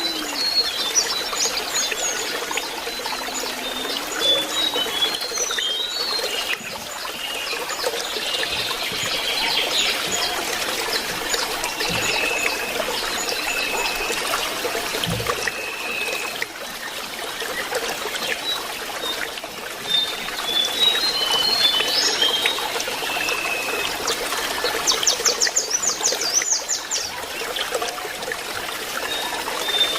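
Lesser shortwing singing over a steady trickle of running water: scattered short high notes, several held whistled notes, and a fast high trill a little before the end.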